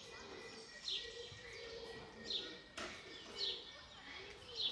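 A bird calling over and over, a short falling note about once a second, against a low murmur of background noise, with a single sharp click about halfway through.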